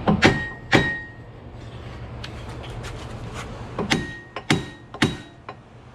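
Hammer blows on a Lexus GS upper control arm, some of them ringing briefly, to knock a stuck ball joint loose. There are two sharp strikes near the start, then a pause, then three more about half a second apart.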